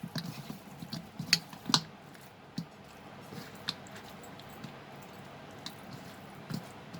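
Raw chicken pieces on the bone being mixed with salt and pepper: soft wet squelching, with a few sharp clicks in the first two seconds and only occasional small ticks after.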